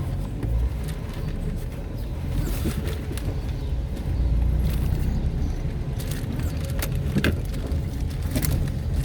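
A vehicle being driven: steady low engine and road rumble, with a few rattling knocks late on.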